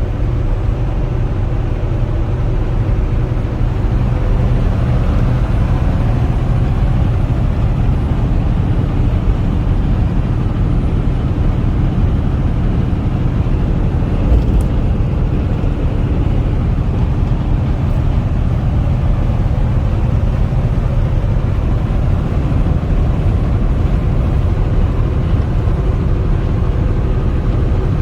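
Semi-truck cab at highway speed: a steady low drone of diesel engine and road noise, with one faint click about halfway through.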